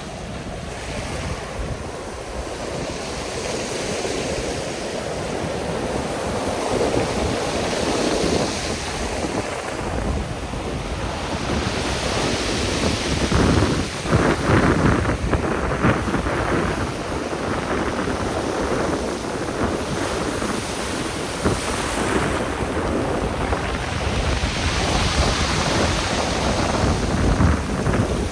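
Black Sea surf breaking on the shore in a strong wind, with heavy wind buffeting the microphone. The waves swell louder about halfway through and again near the end.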